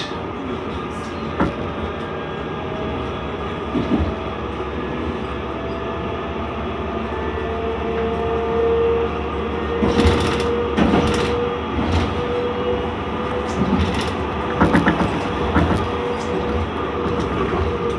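Interior of a C-class tram running along the line: a steady rumble with a motor whine that holds one pitch from about seven seconds in. From the middle onwards there are knocks and rattles as the wheels cross track joints.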